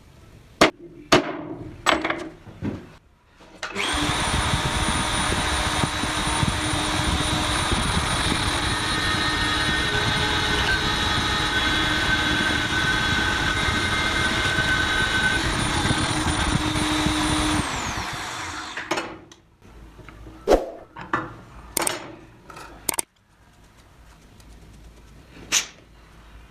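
An electric power tool runs steadily for about fourteen seconds, with a high whine that falls as the motor winds down, framed by sharp knocks and clicks of handling workpieces and tools before and after.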